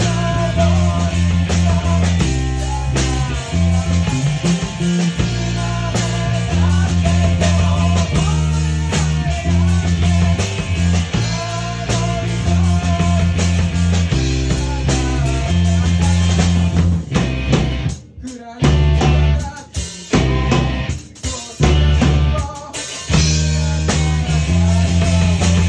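Rock band playing together in rehearsal: drum kit, bass and electric guitar in an instrumental passage without vocals. About two-thirds of the way in, the band breaks into a run of sharp stops and accented hits, then picks back up.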